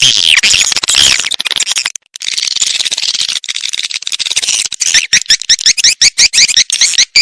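Swiftlet lure call track: dense, high chirping and twittering of edible-nest swiftlets. About five seconds in it turns into a fast, even run of repeated chirps, about five a second. Calls like these are played to draw swiftlets into a nesting house.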